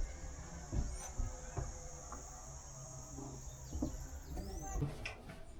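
Steady high-pitched insect drone, with a couple of short bird chirps. The drone cuts off abruptly near the end.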